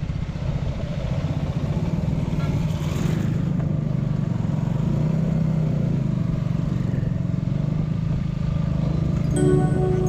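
Yamaha 250 motorcycle engine running steadily while riding. Music comes in near the end.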